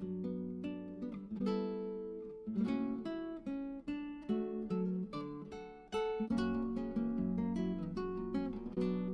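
Background music: acoustic guitar playing a plucked melody of quick notes.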